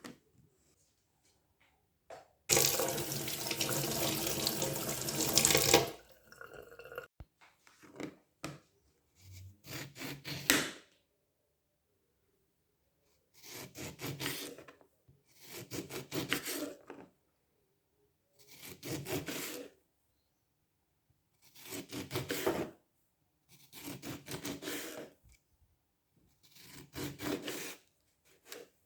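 Kitchen tap water running hard for about three seconds. After a few clicks it comes as a series of six shorter rushes of water, one every two to three seconds, as when rinsing something under the tap.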